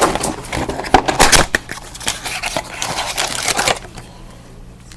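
Crinkling and crackling of trading-card packaging, cardboard mini boxes and pack wrappers, being handled and opened. The sound stops about a second before the end.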